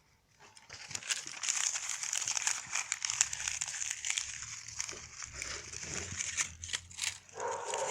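Dense crinkling and crackling of dry leaves and paper, starting about half a second in and stopping shortly before the end.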